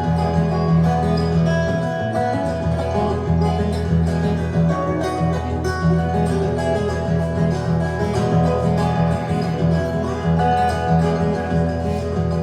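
Live music: plucked string instruments playing a steady, even-paced passage over a strong bass, with no singing.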